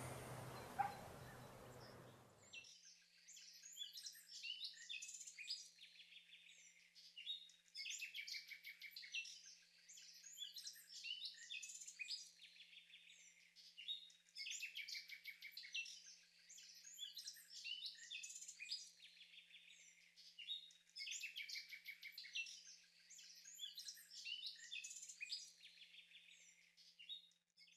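Birdsong: a small songbird singing phrases of rapid high notes, each lasting a second or two and repeated every two to three seconds. The song begins about two and a half seconds in, after a faint outdoor hiss cuts off.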